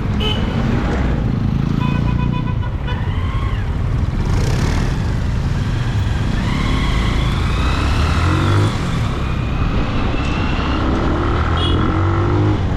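Benelli 150i motorcycle riding in city traffic, its engine running steadily with rises in pitch as it accelerates about halfway through and again near the end. A short pulsing beep, like a horn, sounds about two seconds in.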